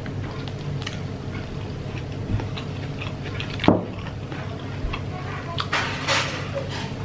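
Close-up chewing of a mouthful of fried chicken with sambal and rice, with small wet mouth clicks. About halfway there is one brief, sharp sound that falls in pitch.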